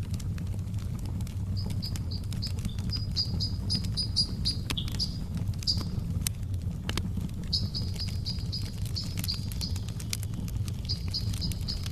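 Wood fire crackling, with scattered sharp pops over a steady low rumble. A bird chirps above it in quick runs of short high notes, broken by a few pauses.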